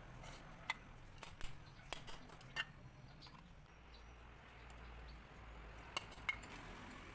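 Light metallic clicks and clinks, scattered irregularly, from small tools and metal parts handled during hand work on an electric water-pump motor.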